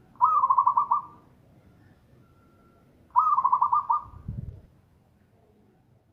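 Zebra dove (perkutut) cooing loudly: two quick trilled coo phrases about three seconds apart, each opening on a rising note. A short low thump follows the second phrase.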